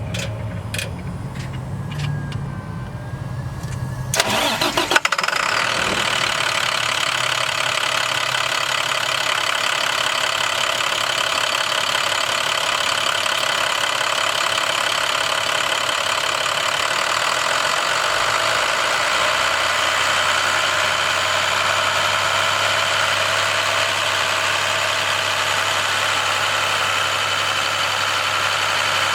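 International MaxxForce DT inline-six diesel engine cranking and catching about four seconds in, then idling steadily.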